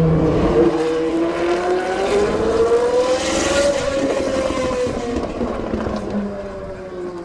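Maserati MC12 GT1 Corsa's V12 engine pulling on track: its pitch climbs for about three and a half seconds, then falls away as the sound grows fainter.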